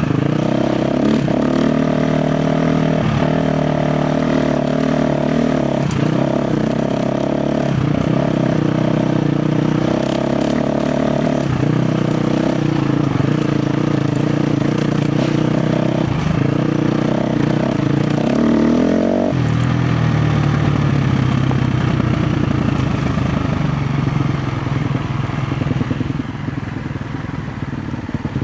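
A KTM 350 XC-F's single-cylinder four-stroke engine running at high revs under load on a rough trail, with scattered knocks and clatter. About two-thirds of the way in, the revs rise briefly and then drop to a lower, steadier note.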